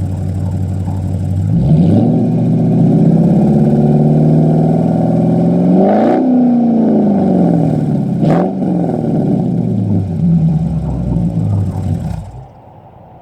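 Jeep Grand Cherokee 5.7 Hemi V8 with Cherry Bomb glasspack mufflers and the resonators deleted, revved from idle. It climbs slowly to a peak about halfway through, drops, blips up again briefly, then falls back toward idle. The sound cuts off near the end.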